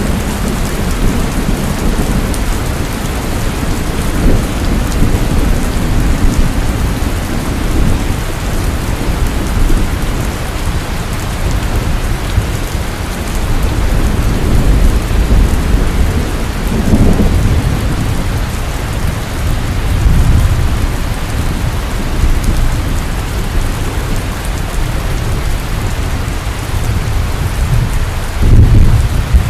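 Heavy rain falling in a steady hiss, with low rolling thunder rumbling underneath that swells several times and is loudest near the end.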